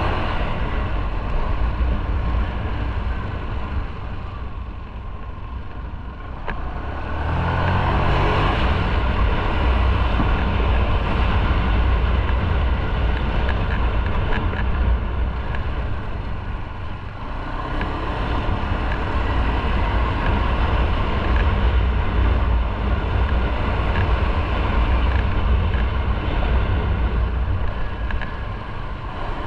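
Motorcycle engine running while riding, mixed with wind and road noise. It eases off about four to six seconds in, picks up again about seven seconds in, and dips once more around seventeen seconds.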